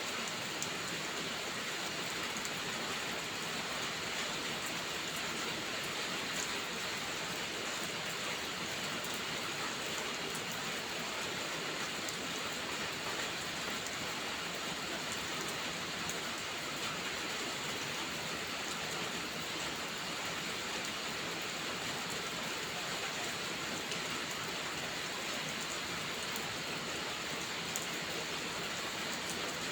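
Steady rainfall: an even hiss with a few faint ticks of individual drops.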